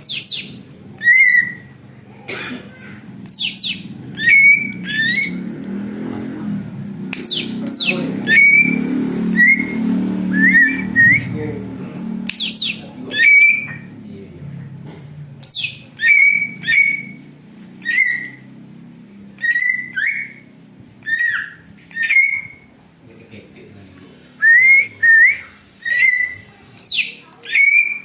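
Cucak ijo (green leafbird) calling noisily: a long run of short, sharp whistled notes, many of them a quick downward slide from high pitch, coming every half second to a second. A low murmur runs under the calls in the middle of the run.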